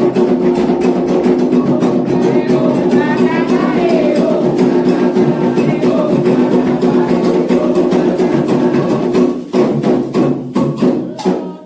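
Candomblé atabaque drums playing the fast rum rhythm for Ogum, with voices singing along, stopping abruptly just before the end.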